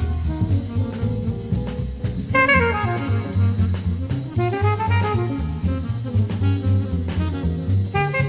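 Recorded jazz: a saxophone lead playing melodic runs that rise and fall, over an even, steady bass line and drum kit.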